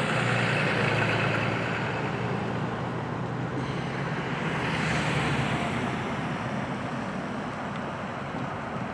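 Road traffic passing: engine and tyre noise that swells as vehicles go by, about a second in and again around the middle.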